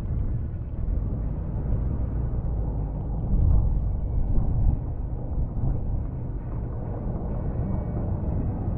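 Snow-plow truck running: a steady low rumble that swells briefly about three and a half seconds in.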